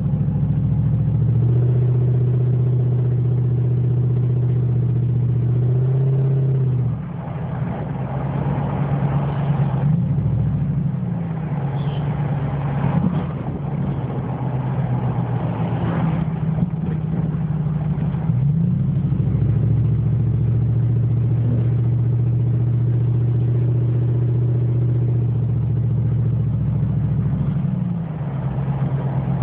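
2004 Dodge Dakota's 4.7-litre V8 running with no muffler or tailpipe, giving a loud, open exhaust drone while driving. The drone holds steady, then about seven seconds in it drops off and the engine note wanders and climbs for a while before settling back into a steady drone. It drops off again near the end.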